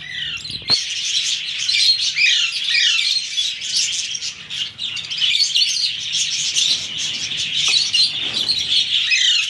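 Several baby ring-necked parakeet chicks chirping rapidly in overlapping calls, the begging cries of chicks at hand-feeding. A single knock sounds under a second in.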